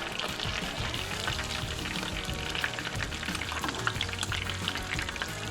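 Battered walleye frying in hot oil: a steady sizzle full of small crackles and pops.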